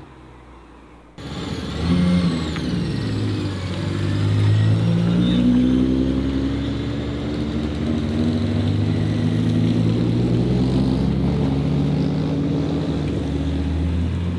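A modified car's engine pulling away, breaking in suddenly about a second in, then revving up twice before settling into a steady run.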